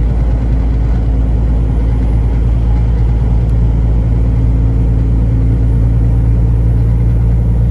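Semi-truck's diesel engine and road noise, a steady low drone while the truck is cruising.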